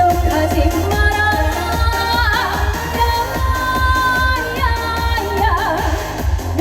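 Trot song performed live through a concert sound system: a female singer holding long, wavering notes over a backing track with a steady bass beat.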